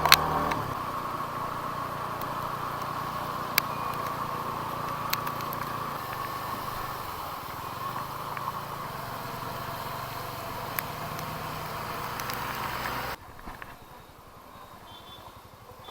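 Motorcycle engine running steadily, with a few sharp clicks, cutting off abruptly about thirteen seconds in to leave a much quieter background.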